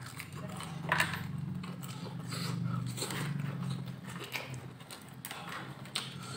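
Close-up chewing and crunching of fried dried fish, with sharp crunches about a second in and again near the end, over a steady low hum.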